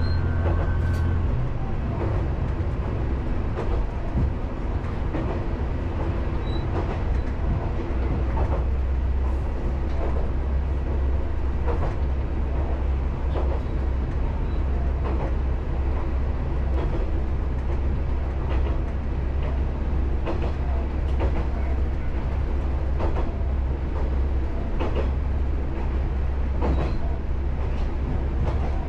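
Isumi Railway diesel railcar running along the line: a steady low engine drone with rail-joint clicks every second or two. About a second in, a brief higher tone stops and the low drone shifts.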